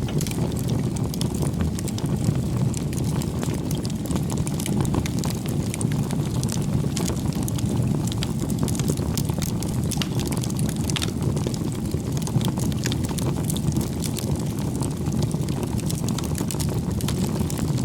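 Bonfire burning, with a steady low rush of the flames and frequent irregular crackles and small pops of the burning wood.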